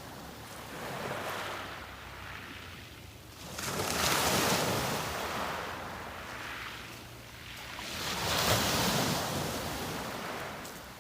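Sea waves breaking and washing up a beach, in slow swells. Two larger waves surge in, one about a third of the way through and one about three-quarters through, each fading back as the water draws off.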